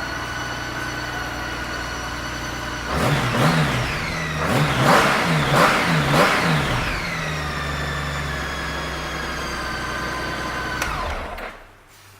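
2007 Honda Gold Wing 1800's flat-six engine idling, then blipped four times in quick succession, settling back to idle and shut off near the end.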